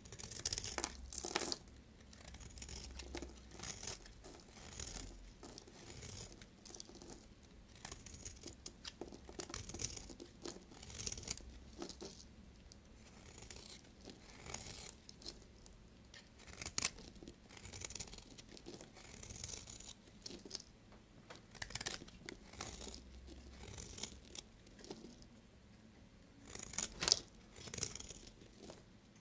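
Bars of soap being cut with a knife close to the microphone: irregular crisp, crackling strokes, with the loudest ones about a second in and near the end.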